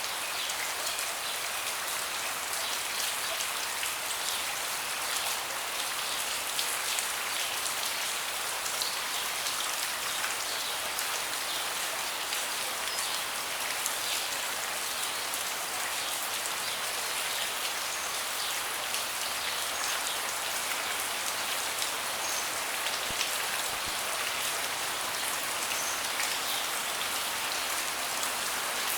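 Steady rain, with many close individual drops ticking.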